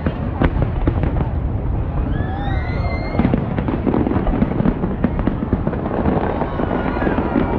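Fireworks display: aerial shells bursting in a dense, continuous run of bangs and crackles, with a rising whistle about two to three seconds in.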